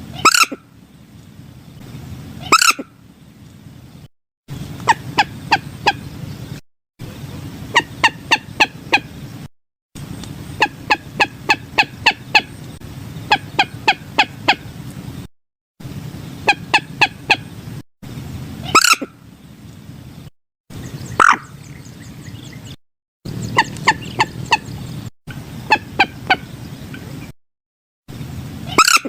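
Common moorhen calling: runs of short, sharp notes at about four a second and now and then a single loud squawk, over a low steady background noise. The sound is broken every few seconds by brief silent gaps.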